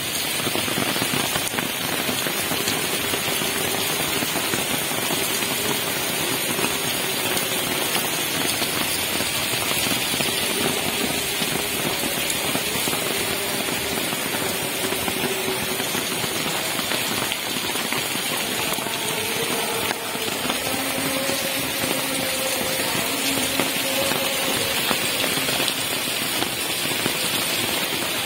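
Heavy rain pouring steadily onto pavement, puddles and parked cars: a dense, even hiss and patter of drops.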